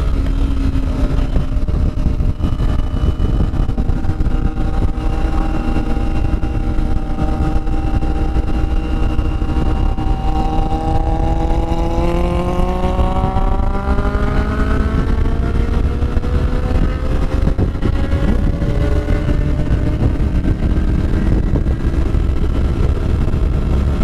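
Kawasaki Ninja sport motorcycle engine running under way, heard from on board over heavy wind rumble on the microphone. About ten seconds in, the engine note climbs steadily for several seconds as the bike accelerates, then eases back down.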